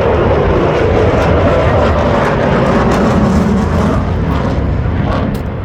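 Airplane flying past, a loud steady engine rumble that eases off slightly near the end.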